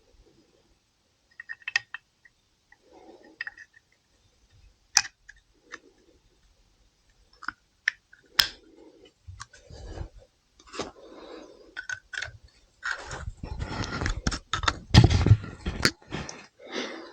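Metal clicks, clinks and short scrapes as a sintered brake pad with its anti-squeal plate is pushed and levered into a motorcycle's front brake caliper with pliers, a tight fit. The scraping and knocking grows denser and louder near the end.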